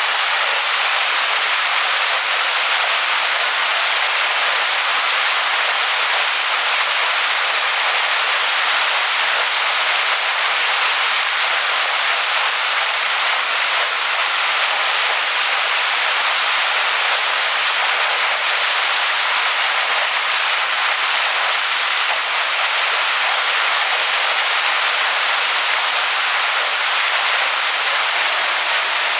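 Waterfall splashing onto rocks: a steady, even rush of falling water, mostly hiss with little low rumble.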